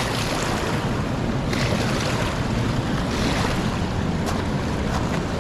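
A raging river rushing past in a steady, loud wash of water noise, like surf.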